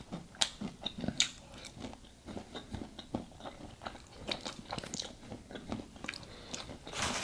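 Close-up chewing of a crunchy mouthful of pecans and salad: irregular crunches and wet mouth clicks.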